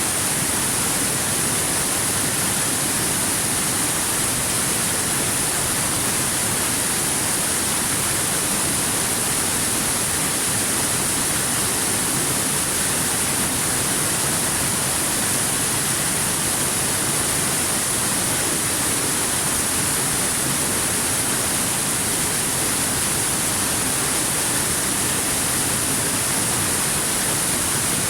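Waterfall: a steady, unbroken rush of falling water, heavy in the high hiss, with no change.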